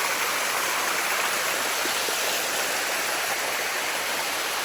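Steady rush of water from Bua Tong, the Sticky Waterfall, cascading over its limestone rock.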